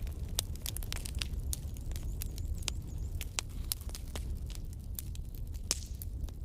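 Wood logs burning in a fireplace: irregular sharp crackles and pops, several a second, over a steady low rumble of the fire.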